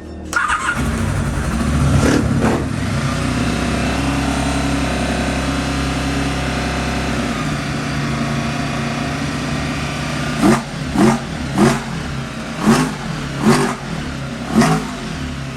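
Honda VFR750F's V4 engine running, then revved in six quick throttle blips in the second half.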